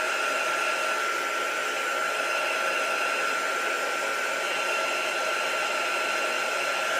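Handheld heat tool blowing steadily with a constant whine, drying wet acrylic paint.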